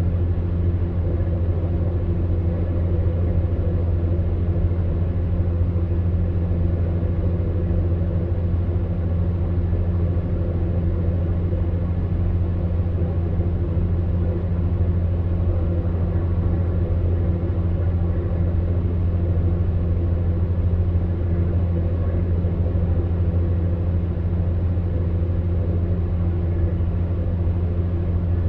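Electric fan heater running: a steady low hum from the fan motor with a soft airy hiss over it.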